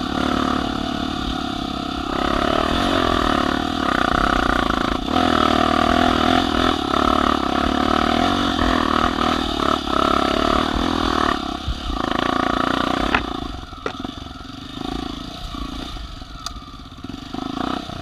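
Small motorcycle engine revving hard under load, its pitch wavering with the throttle for about eleven seconds, then easing off and fading, with a few knocks near the end.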